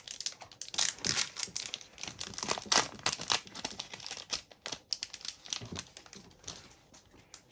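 Trading card pack wrappers crinkling as packs are torn open and the cards handled: a busy, irregular run of crackles and rustles that thins out near the end.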